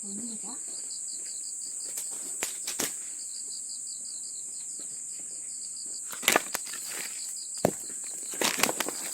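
Crickets and other insects chirping steadily in a high, rapidly pulsing trill, with a few scattered sharp knocks of split firewood being handled and stacked.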